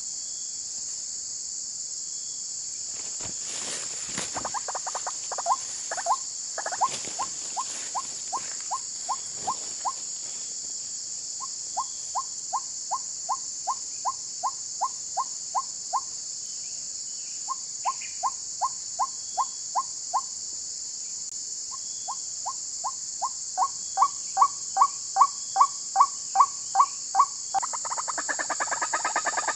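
White-breasted waterhen (ruak-ruak) calling: several runs of short rising notes at about two a second, loudest a few seconds before the end, then breaking into a faster, denser pulsed series. A steady high chorus of crickets runs underneath.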